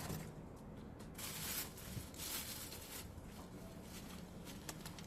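Cardboard packaging being handled: two brief scraping rustles, with light clicks and knocks between them.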